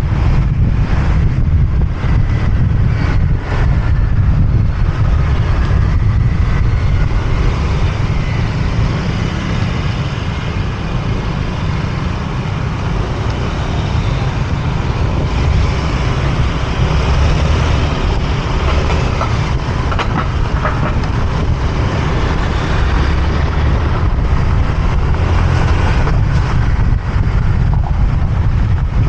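Wind buffeting the microphone of a motorbike on the move, over the steady noise of the bike and surrounding city traffic.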